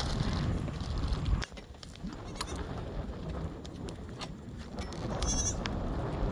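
Goat bleating, with wind rumbling on the microphone throughout.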